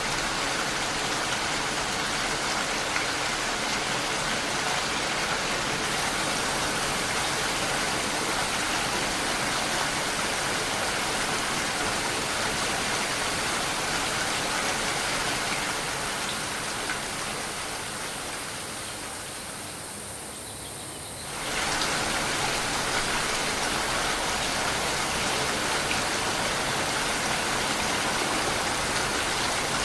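Steady rain, an even hiss with no other sounds. Past the middle it fades down over several seconds, then cuts back in abruptly at full strength about 21 seconds in.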